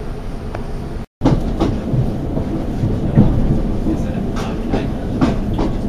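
Inside a Southern class 455 electric multiple unit on the move: a steady low rumble of wheels on rail, with irregular clanks and clicks as it runs over rail joints and pointwork. The sound drops out completely for a moment about a second in.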